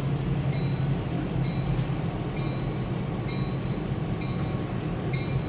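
A train with Southern Pacific diesel switcher locomotive 1195 rolls slowly through a road grade crossing, its diesel engine making a steady low rumble. Over it, the crossing bell dings about once a second.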